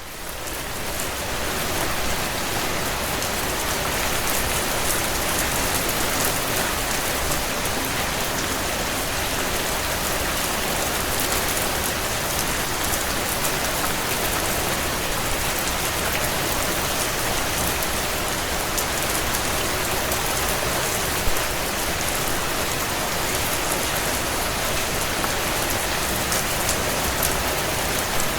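Heavy rain on window panes: a steady, dense hiss of many small drops, fading in over the first couple of seconds. A single sharp louder snap comes about two-thirds of the way through.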